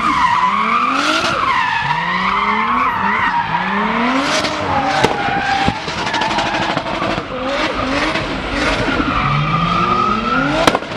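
Big-turbo Toyota Supra engine revving hard in repeated quick rising sweeps, with tyres squealing in a wavering high screech over it.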